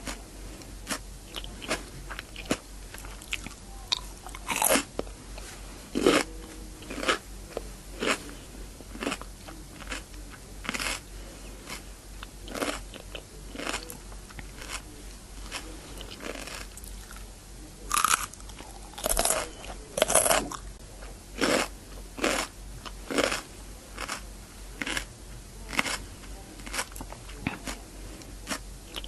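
Close-miked crunching of raw cucumber: repeated bites and chewing, about one or two sharp crunches a second, with a few louder bites near the middle.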